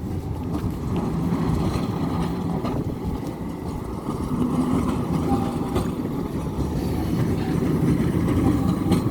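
Tram running towards the listener, a steady low rumble that grows slowly louder.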